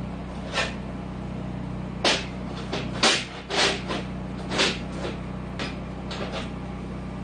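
Parts for a wood splitter being handled and set out: a series of short, irregular scrapes and knocks over a steady low hum.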